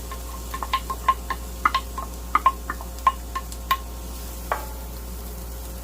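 A utensil tapping and clinking against the hot pan, about a dozen light metallic clicks over the first four seconds and one more about four and a half seconds in, over a steady low hum.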